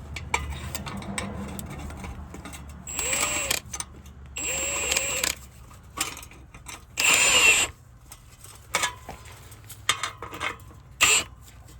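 Cordless impact gun tightening the nuts on exhaust muffler clamps in three short bursts, the motor spinning up and winding down each time, with a few scattered tool clicks.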